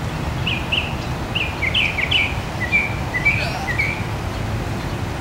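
A small songbird chirping: a quick series of about a dozen short chirps that stops about four seconds in, over a steady low rumble.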